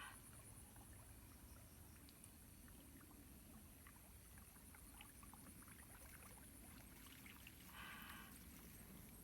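Near silence: faint outdoor background with a steady high-pitched whine, scattered faint ticks, and one short pitched call about eight seconds in.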